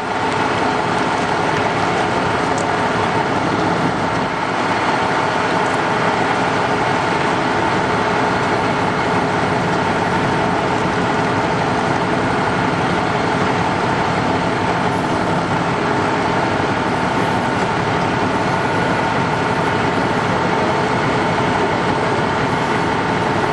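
Steady, unchanging engine noise: a constant running rumble with a faint hum of a few steady tones, as from emergency vehicles idling.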